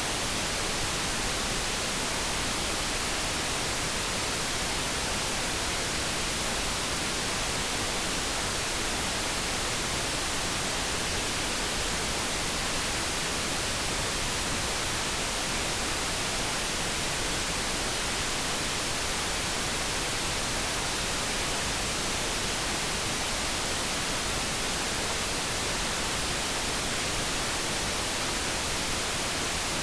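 Steady generated noise, an even unchanging hiss of the kind sold as light brown noise, with no tone or event standing out.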